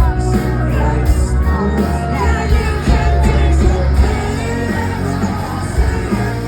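Live rock band playing a song with sung vocals, loud and with heavy bass, recorded from within the concert crowd on a phone.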